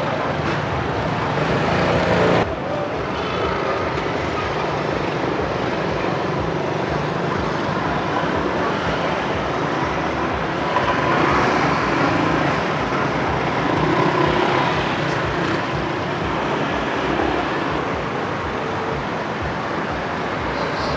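Street traffic running steadily, with vehicles swelling past twice around the middle. The sound drops suddenly about two and a half seconds in.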